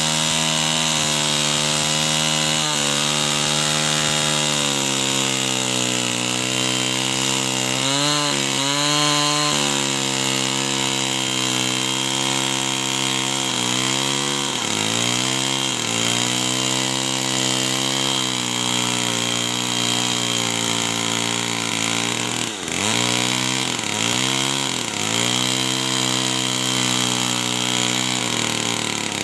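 Two-stroke chainsaw running at high speed through wood, its engine note steady but dropping in pitch and recovering several times as it is loaded.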